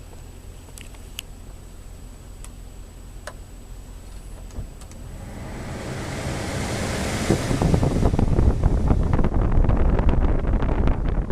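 Low steady rumble with a few faint clicks, then from about halfway through a loud, gusty rush of wind buffeting the microphone.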